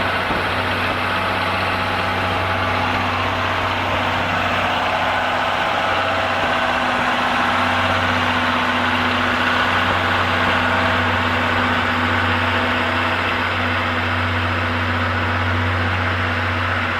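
A heavy engine idling steadily, a low drone that grows a little stronger about halfway through.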